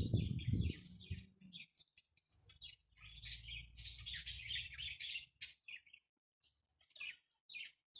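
Aviary parrots chirping and chattering, a dense run of short high chirps that thins out toward the end. A loud low rumble sits under the chirps in the first second or so.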